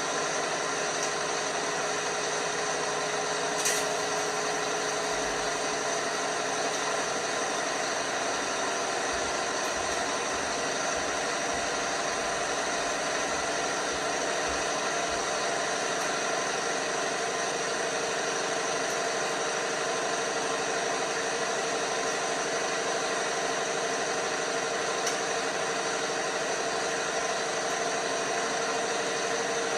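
LG washing machine running, a steady motor hum and whir with one sharp click about four seconds in; its tone steps slightly higher later on.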